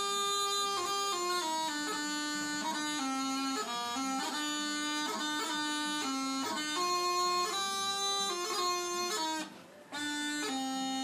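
Bagpipe tune: a melody stepping from note to note over a steady drone, breaking off briefly about nine and a half seconds in before starting again.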